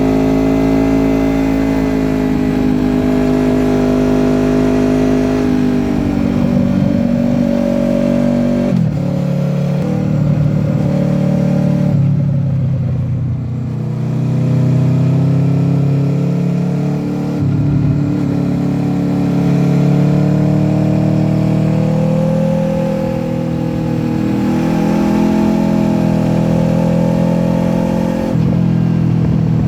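Honda VFR800F V4 engine, breathing through an aftermarket SC-Project exhaust, ridden hard up a winding road. The engine note climbs and falls again and again, with sudden shifts in pitch a few times at the gear changes.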